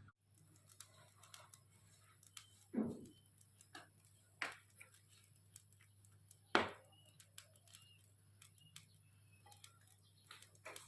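A few scattered knocks, three of them louder, among small clicks over a faint steady hum.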